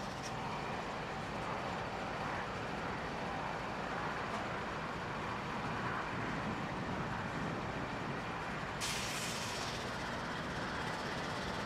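Diesel-electric freight locomotives, Pacific National NR class, running with a steady engine rumble and hum. About nine seconds in, a sudden hiss of air starts and slowly fades, like an air brake venting.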